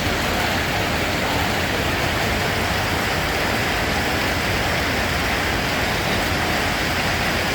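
Steady rain, a dense even hiss with no single drops or breaks standing out.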